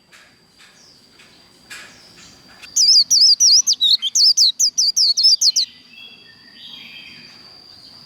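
White-eye singing the fast 'líu' song: softer high chirps, then about three seconds in a loud, rapid run of quick up-and-down high notes lasting about three seconds, fading back to soft twittering.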